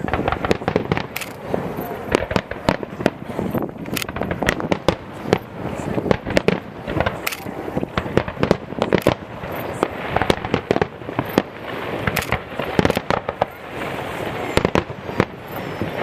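Fireworks display in full swing: shells bursting in rapid, continuous bangs and crackles, several a second, with no let-up.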